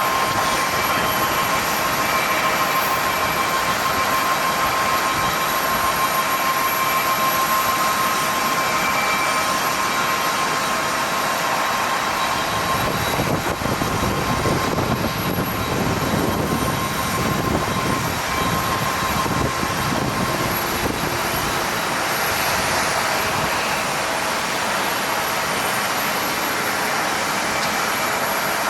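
Jet airliner engines running: a steady high whine that fades out about twenty seconds in, over a broad rush of noise, with a deeper rumble swelling in the middle.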